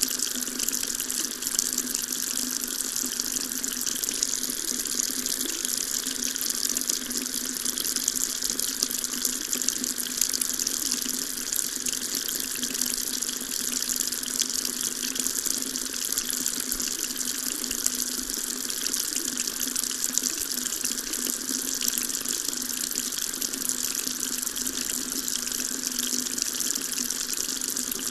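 Water tap running steadily, a continuous stream splashing into a sink.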